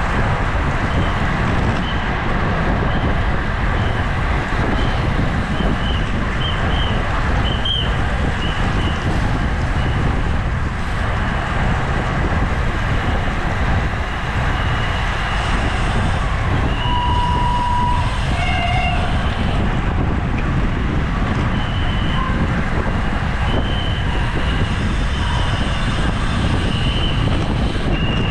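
Steady rushing wind noise on the microphone of a bicycle racing at speed, with short high chirps scattered through it.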